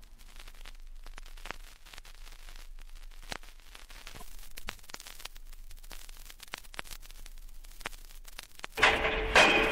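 Vinyl record surface noise: a low hiss with scattered clicks and pops from the run-in groove between tracks. Near the end, a loud effect cuts in with a steady hum and heavy repeated strikes.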